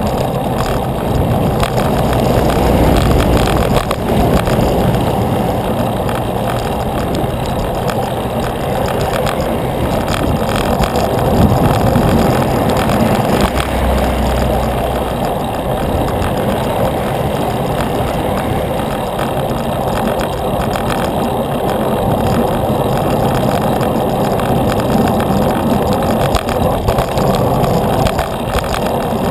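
Steady wind rush on the microphone and road noise from a moving bicycle, with motor traffic running nearby.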